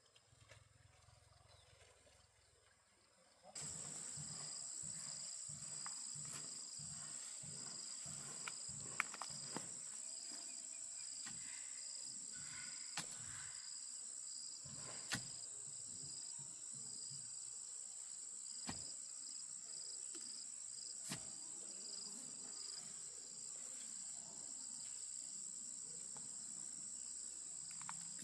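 Insects droning in a steady high-pitched chorus, with a pulsing note under a continuous buzz. It starts abruptly a few seconds in. A few sharp knocks sound over it.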